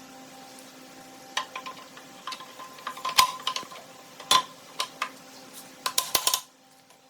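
Small metal parts clinking and tapping together: a string of sharp, ringing metallic clicks, the loudest about three and four seconds in. A steady low hum runs under them and drops away near the end.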